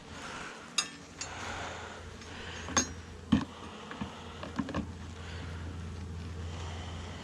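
Saskatraz honey bees humming steadily around an open hive, with a handful of sharp clicks and knocks from hive parts being handled.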